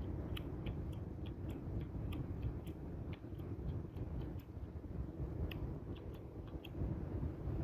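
Campfire crackling: irregular sharp pops and snaps, a few a second, over a low steady rumble.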